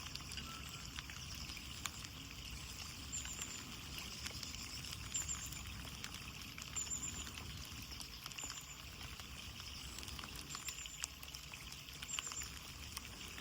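Rain falling steadily, drops pattering and ticking on window glass over a constant hiss.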